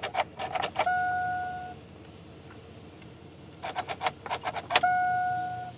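Chevy S10 ignition key clicking through its positions, then the instrument cluster chime sounding one steady electronic tone for just under a second. This happens twice, the second time about four seconds in.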